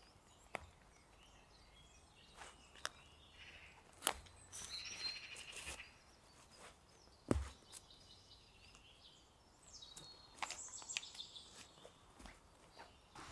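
Quiet woodland ambience with scattered sharp cracks and clicks, two of them louder about four and seven seconds in, and a few short bird calls.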